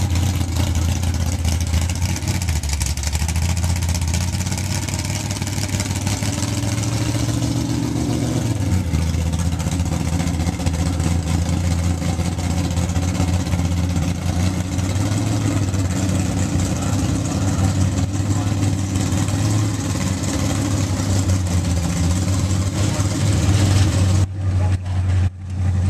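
Old gasser-style drag car's engine running loudly at a steady idle as it rolls through the pits, revved up once and back down about seven seconds in. Near the end the sound cuts out briefly a few times.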